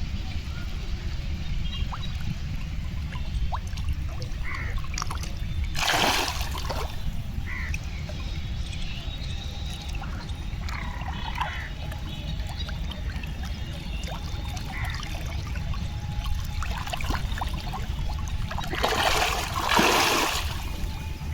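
Pond water splashing and trickling: a short splash about six seconds in and a longer one near the end, with small drips and splashes between, over a steady low rumble.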